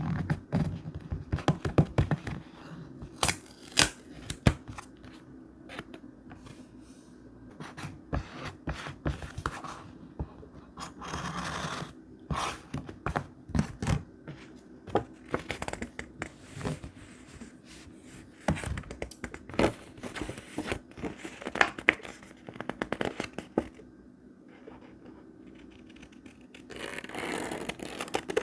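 Thick vintage paper being handled for scrapbook journaling: rustling, scraping and tearing, with many short taps and clicks scattered throughout and two longer stretches of tearing or crinkling, about 11 seconds in and near the end.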